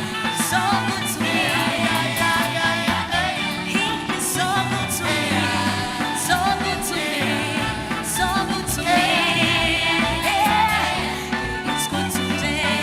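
A live band playing a song with a singer, with bass, drums and cymbals.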